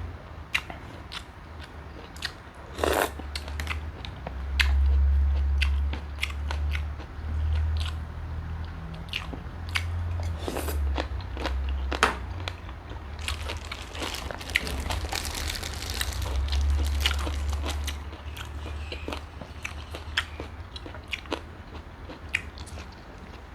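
A person eating close to the microphone: crunchy bites and chewing, with many small sharp mouth clicks and a denser crunching stretch past the middle.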